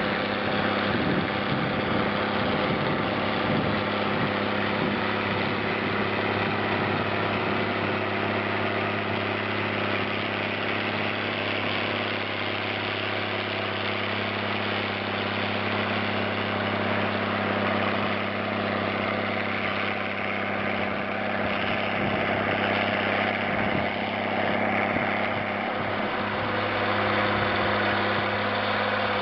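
Zetor 16145 tractor's six-cylinder diesel engine running steadily, pulling a three-furrow plough through the soil.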